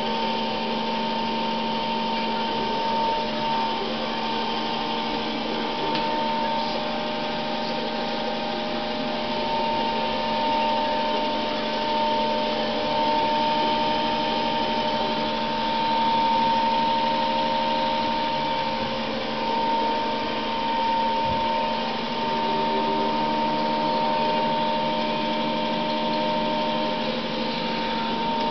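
iClebo Smart robot vacuum cleaner running, a steady whir with a thin, even whine.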